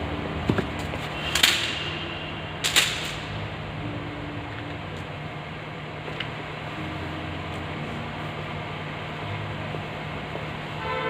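Two sharp metallic clinks a little over a second apart, the first ringing briefly, over a steady low hum.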